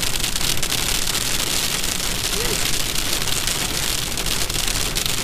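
Heavy rain beating on the car's roof and windscreen, heard from inside the cabin: a dense, steady hiss full of fine patter.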